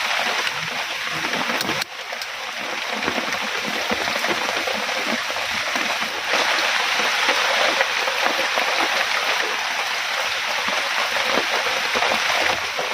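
Heavy rain falling, mixed with running water: a steady, dense rush. It drops out briefly about two seconds in and comes back a little louder after about six seconds.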